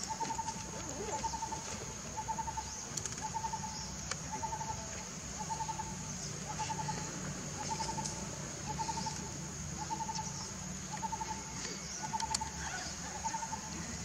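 A bird repeating a short, slightly trilled call about once a second, evenly, over a steady high-pitched drone.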